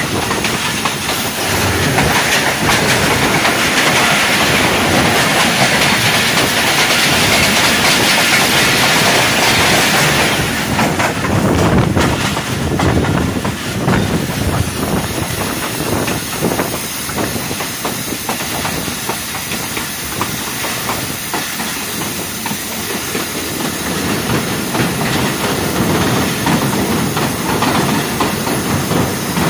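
A moving passenger train heard from its open doorway: a steady rush of air with wheels clattering over the rail joints. For the first ten seconds or so an oncoming train passing close by on the next track makes a louder rushing sound; after that the clatter is more distinct for a few seconds before settling into a steadier run.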